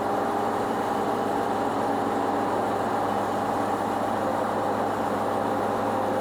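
Band sawmill running steadily, a constant machine drone with a low hum and a few held tones.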